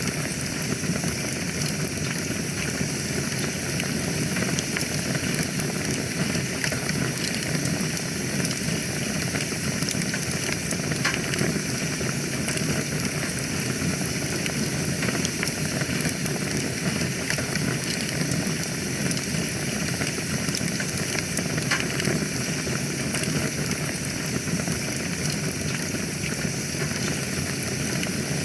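Wood fire burning in a fireplace: a steady hiss of flames with scattered sharp crackles and pops of burning wood.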